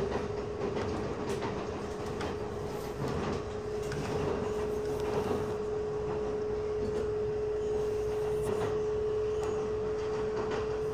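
Passenger train running along the track, heard from aboard: a steady rumble with one held tone throughout and faint clicks now and then.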